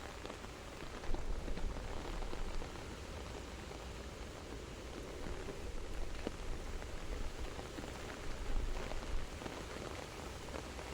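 Steady soft rain falling, with scattered individual drops ticking on a surface and a few slightly louder gusts of drops.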